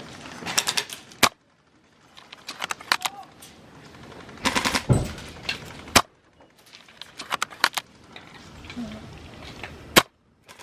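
Spring-powered VSR-ONE bolt-action airsoft rifle firing three single shots about four seconds apart, each a sharp crack, with clusters of quick mechanical clicks between shots as the bolt is worked.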